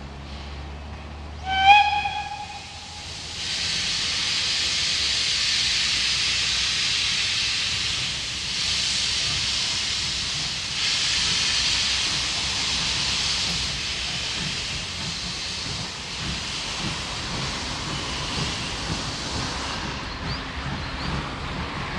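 Steam locomotive giving one short whistle blast, then a long, loud hiss of escaping steam that lasts about sixteen seconds before stopping.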